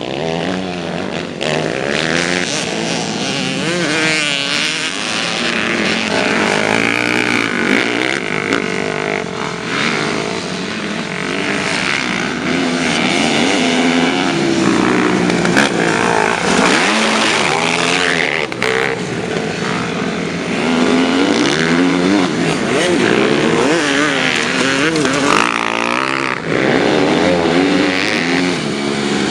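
Several motocross bikes racing, their engines revving up and down over and over, overlapping one another.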